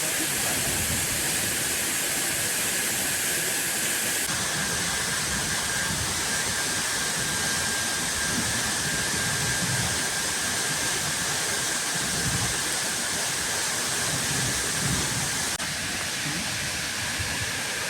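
Steady rush of falling water, loud and unbroken, shifting abruptly in tone about four seconds in and again near the end, with a faint high steady whine in between.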